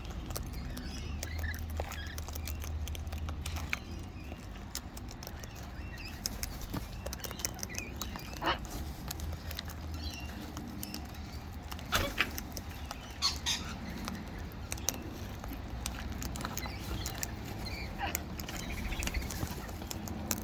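Wild birds at close range: scattered small clicks and taps, with a few brief chirps, over a steady low background rumble.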